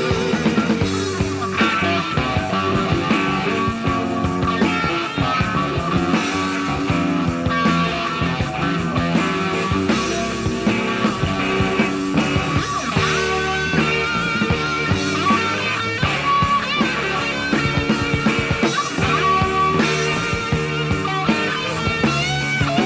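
Hard rock band playing a guitar-led instrumental passage, with electric guitar lines over bass and drums.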